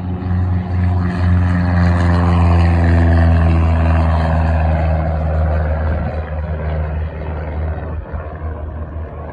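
Propeller airplane passing close by, loudest a few seconds in. The engine and propeller hum drops in pitch as it goes past and then fades.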